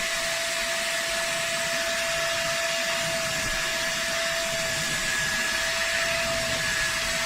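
Vacmaster SCA0801 carpet and spot cleaner's suction motor running steadily: an even rush of air with a constant whine.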